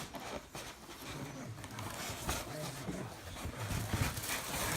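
A television nature documentary playing in the room: faint narration and animal sounds, with a few sharp knocks.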